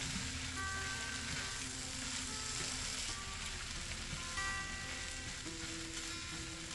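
Corned beef hash (shredded hash brown potatoes, chopped corned beef and onions in butter) sizzling steadily as it fries in a cast iron skillet, stirred with a spatula. Soft background music with held notes plays over it.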